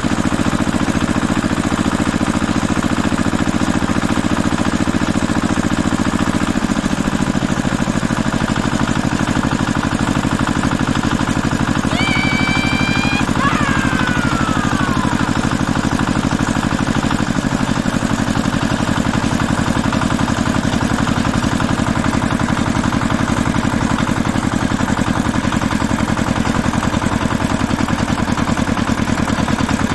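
An engine idling steadily, its note settling a little lower about seven seconds in. Around the middle, a brief high-pitched squeal rises over it and then slides down.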